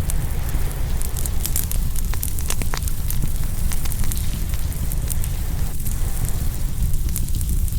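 Open wood fire crackling and popping, with many quick sharp snaps scattered through a dense steady low rumble.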